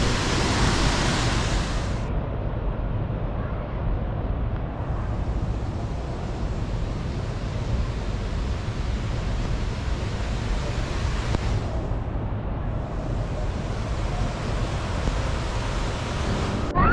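Steady rushing water of a flowing waterfall, with a heavy low rumble like wind on the microphone. The sound turns duller and more muffled about two seconds in.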